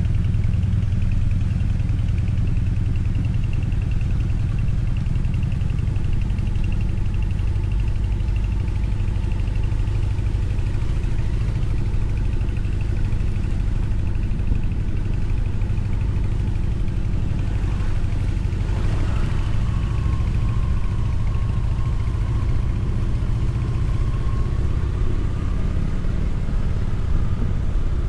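Motorcycle running at a steady speed while being ridden: a constant engine drone under a heavy low rumble. A brief sweep in pitch comes about two-thirds of the way in.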